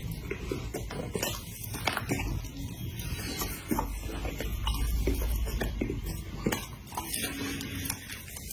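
A person eating close to the microphone: chewing and mouth sounds with scattered sharp clicks of utensils against dishes.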